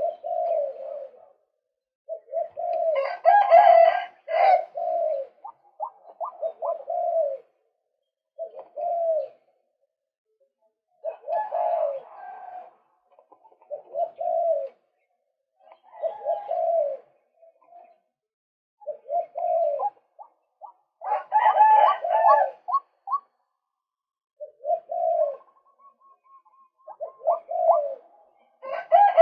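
Male white-breasted waterhen calling: short bouts of low repeated notes about every two seconds, with fuller, louder phrases about three, eleven, twenty-one and twenty-eight seconds in.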